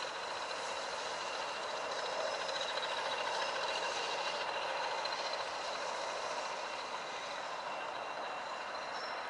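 Locomotives of a train running steadily at a station: a continuous hiss and hum with a few faint, steady high whining tones over it.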